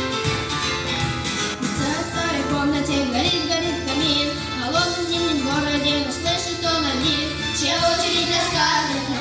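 A song: a child's voice sings a melody over instrumental accompaniment, the voice coming in about two seconds in.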